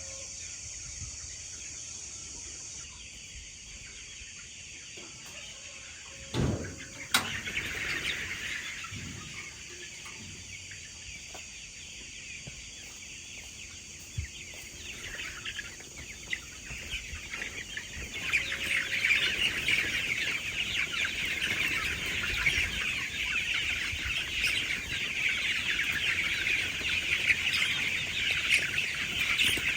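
A large flock of chickens clucking and chirping, many overlapping calls that grow louder about two-thirds of the way through. A single thump and a sharp click come about six to seven seconds in.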